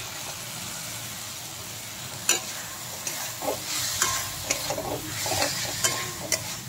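Flat bean seeds frying in a spiced masala in a kadai, sizzling steadily, as a metal spatula stirs them. From about two seconds in, the spatula repeatedly scrapes and clicks against the pan.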